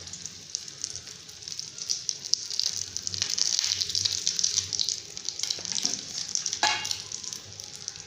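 Beaten egg frying in hot oil in a kadai, a steady sizzle full of fine crackles that grows louder for a few seconds in the middle. A brief sharper noise comes about two-thirds of the way in.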